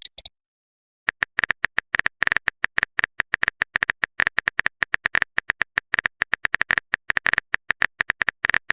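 Phone keyboard typing sound effect: rapid, irregular clicks, several a second, starting about a second in and running on.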